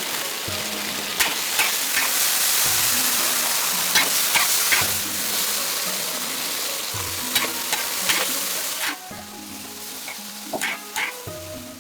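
Food sizzling in a hot pan while it is stirred, with scattered scrapes and clicks of a utensil against the pan. The sizzle drops down sharply about nine seconds in, leaving the occasional scrape.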